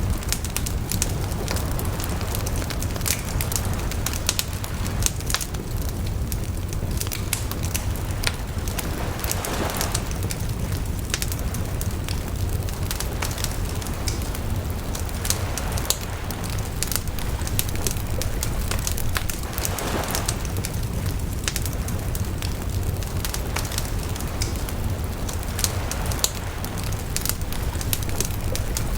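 Bonfire crackling, with frequent sharp pops and snaps over a steady low rumble.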